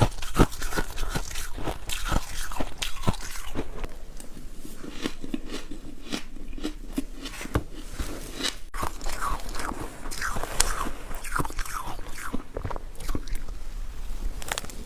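Ice being bitten and chewed close to the microphone: sharp cracks and crunching, densest in the first few seconds, easing off in the middle and picking up again after about ten seconds.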